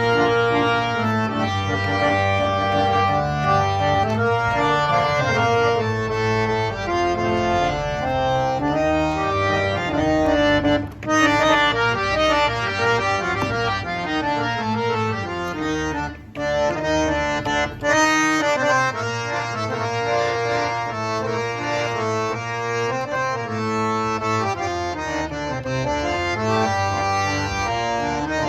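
Reed harmonium played solo: a moving melody over held low notes, pausing briefly about 11 and 16 seconds in.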